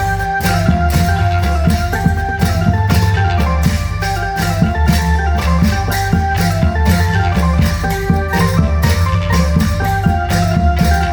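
Loud amplified klong yao band music through a large sound system: drums struck in a fast, even rhythm over heavy bass, with a melody line on top.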